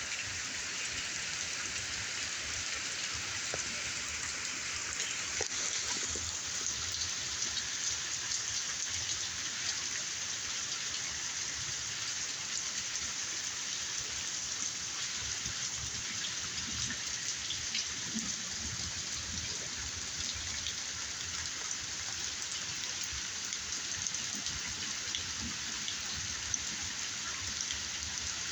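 Steady patter of falling rainwater drops, a dense even hiss sprinkled with fine drop ticks, as a downpour tails off.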